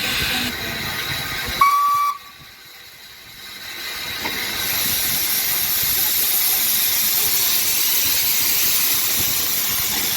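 Steam locomotive whistle giving one short blast about one and a half seconds in, then a steady hiss of steam that builds from about four seconds in and carries on.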